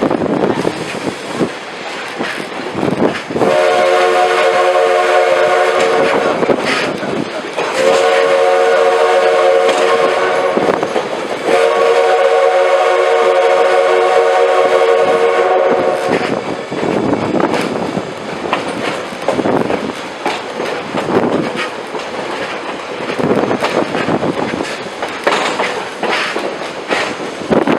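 Steam locomotive #110's chime whistle sounds three long blasts about a third of the way in. Wind buffets the microphone throughout, over the clatter of the excursion train's cars.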